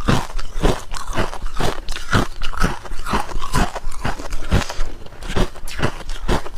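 Hard clear ice being bitten and chewed close to the microphone: a steady run of sharp, loud crunches, about two a second.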